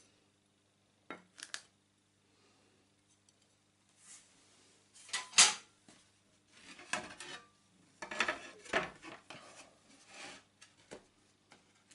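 Sheet glass and hand tools being handled on a workbench: two light clicks, then several scraping, clinking stretches of a second or two each.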